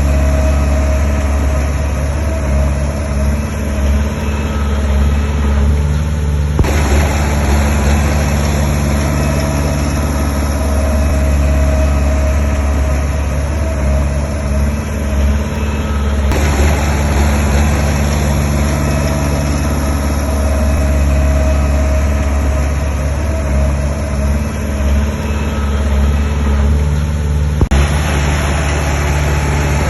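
Diesel engines of heavy earthmoving machinery running steadily with a deep, even hum. The sound shifts abruptly three times.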